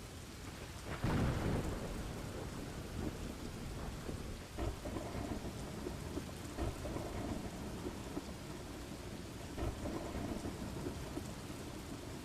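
Steady rain with a rumble of thunder about a second in, the loudest moment, and fainter rumbles later on.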